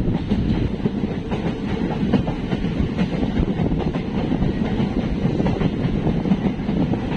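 Passenger train running on the track, a steady rumble with wheels clattering over the rails, heard from aboard the moving coach.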